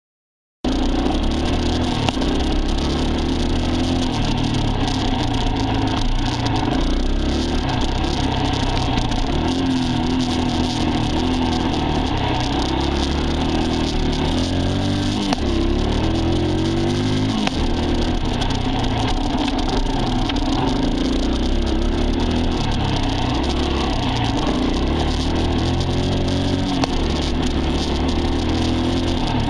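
Dirt bike engine running hard, its pitch rising and falling over and over as the throttle is worked. It cuts in abruptly about half a second in.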